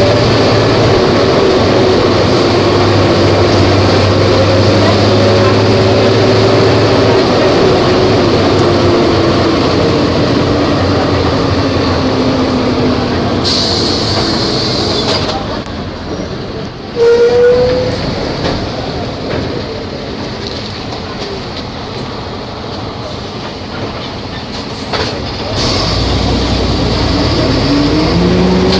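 Volvo B270F bus's diesel engine running loud under load, its pitch easing down over the first half. It then goes quieter for about ten seconds, broken by one sudden loud burst about 17 seconds in, and rises in pitch again near the end as it picks up revs.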